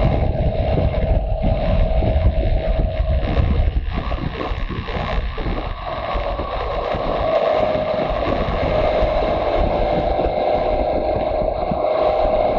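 Motorcycle engine running under way, a steady engine note over heavy wind rumble on the microphone; the note dips briefly about halfway through and then holds steady again.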